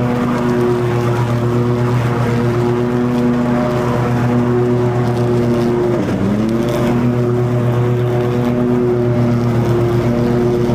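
Toro TimeCutter zero-turn mower running at full throttle with its deck blades cutting long grass, a steady engine drone. About six seconds in the engine speed dips sharply and then recovers, as the engine briefly bogs under load.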